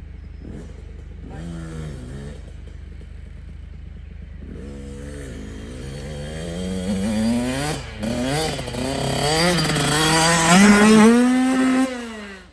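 Small dirt bike engine: a few short throttle blips, then a long run-up with the pitch climbing through the gears, with one drop in pitch at a shift, as the rider accelerates toward the ramp. The engine sound rises to its loudest near the end and then cuts off suddenly.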